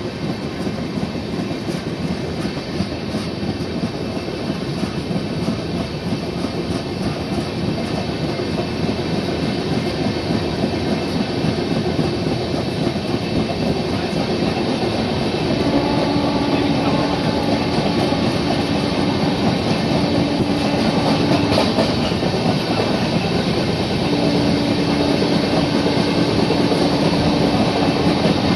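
EMU commuter train running, heard from aboard, growing louder as it picks up speed. About halfway through a steady hum comes in, breaks off for a couple of seconds, then returns.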